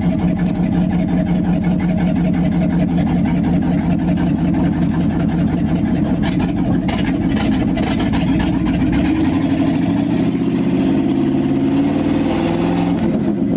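Old truck engine running loud on open exhaust manifolds with no exhaust pipes fitted. About nine seconds in it speeds up and its pitch rises.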